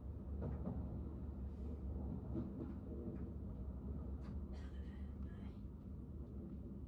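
Steady low rumble and hum of a KTX high-speed train running, heard inside the passenger car.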